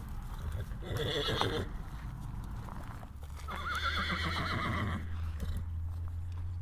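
Horse whinnying twice, a short call about a second in and a longer, quavering one about halfway through, over a steady low hum.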